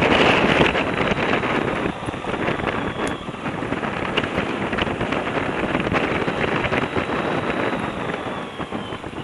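Loud rushing wind noise on the microphone, dying down over the last few seconds.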